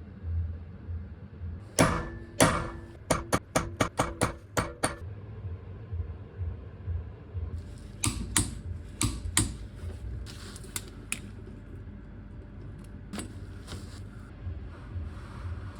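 Metal hand tools clicking and tapping on metal: a quick run of about ten sharp, slightly ringing clicks about two seconds in, then scattered clicks later.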